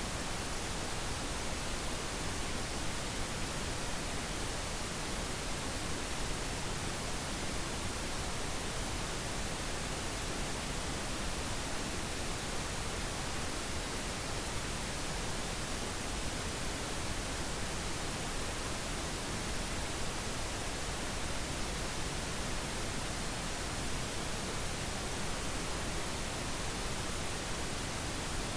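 Steady synthetic pink noise: an even hiss without any change.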